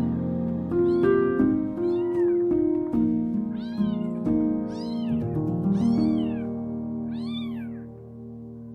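A young kitten mewing over and over, about eight short high-pitched mews, each rising and falling in pitch. Soft background music plays under it and fades near the end.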